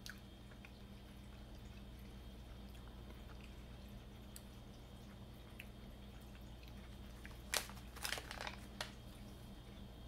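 Faint chewing of a soft gummy candy. About three-quarters of the way in, a short burst of sharp crackles as the plastic snack pouch is handled and lifted.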